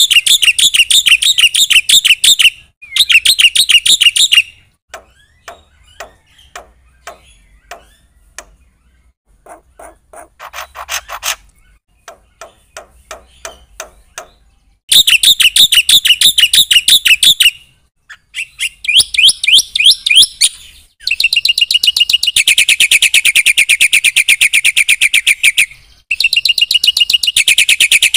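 Black-winged starling (jalak putih) singing: loud bursts of rapid, chattering repeated notes, a quieter middle stretch of scattered clicks and short note runs, then a long unbroken fast trill near the end.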